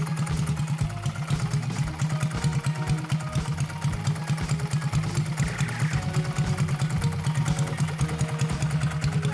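Honda Benly CD125T's air-cooled 125 cc parallel-twin four-stroke engine idling with a steady, rapid low pulse, with light background music over it.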